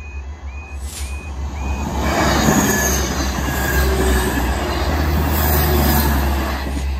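A level crossing alarm sounds with a repeating rising tone of about two chirps a second. From about two seconds in, a South Western Railway Class 159 diesel multiple unit passes over the crossing with a loud rumble of engines and wheels, with some wheel squeal. The rumble eases off near the end as the train clears.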